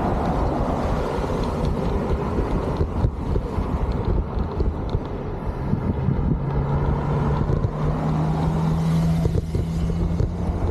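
Wind rumbling over the microphone with road traffic while cycling alongside a road. About six seconds in, a steady low hum joins and stops near the end.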